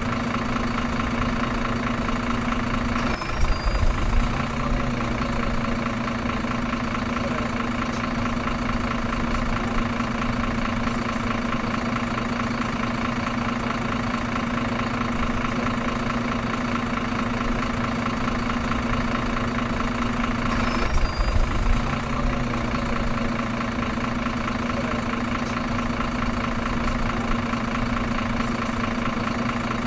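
Truck engine idling steadily, with a brief louder rumble twice.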